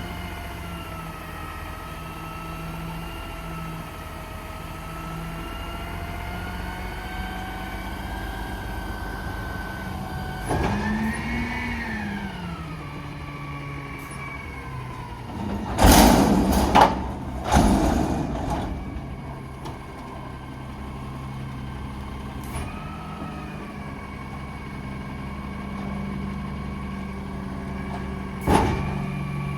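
Garbage truck running with a steady whine, revving up and back down about ten seconds in. Several loud bangs come about sixteen to eighteen seconds in, and one more near the end.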